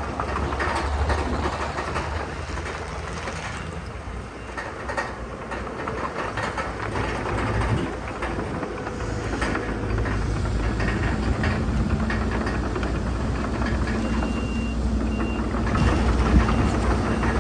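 Heavy diesel earthmoving machinery at work: engines running with dense clanking and rattling, the engine hum growing stronger about ten seconds in. A brief high beep sounds near the end.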